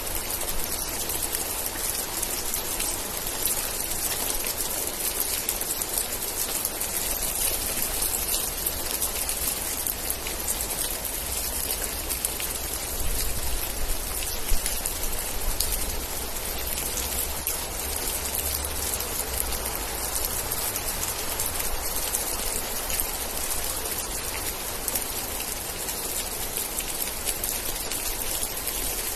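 Steady rain falling, with dense drop ticks over an even hiss. A low rumble swells underneath around the middle, and there is a single louder hit about halfway through.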